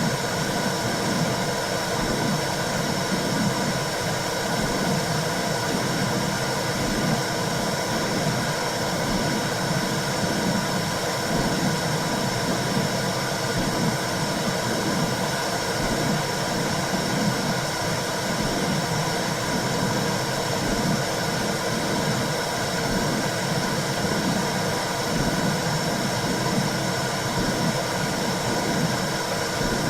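Womb-sound white noise for soothing a baby: a steady hiss with a low whooshing pulse that repeats about once a second.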